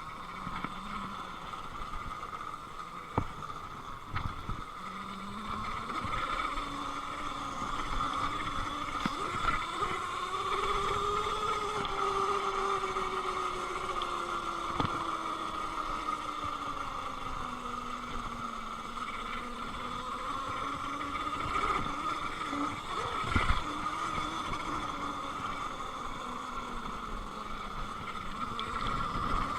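Electric dirt bike's motor whining as it is ridden, the pitch rising and falling with speed, with a few sharp knocks.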